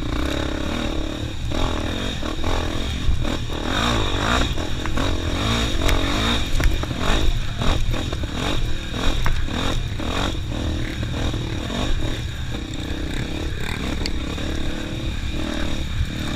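Motorcycle riding along a dusty dirt track, its engine rising and falling in pitch as it revs and eases off, with many short knocks and rattles from the ride over the top.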